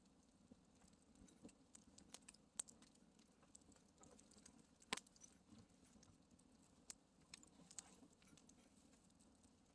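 Faint campfire crackling: irregular sharp snaps and pops of burning wood, the loudest about five seconds in.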